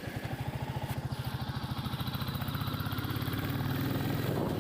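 Royal Enfield Classic 350's single-cylinder engine running while ridden: a fast, even pulsing beat that grows louder towards the end.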